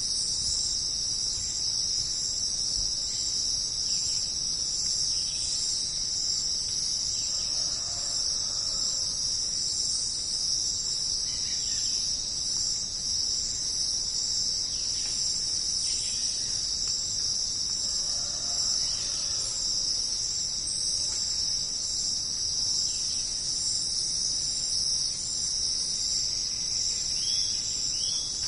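Dense, steady high-pitched chorus of jungle insects such as crickets, with a few faint short calls scattered through it.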